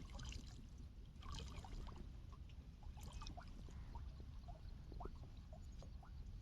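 Faint water trickling and dripping, many small scattered drips over a low steady rumble.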